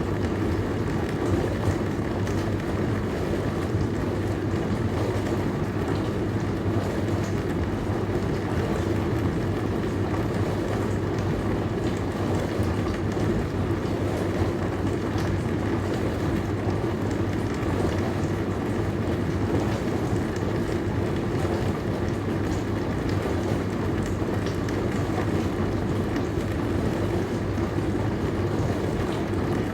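Dishwasher running steadily: a low motor hum under an even wash of water noise.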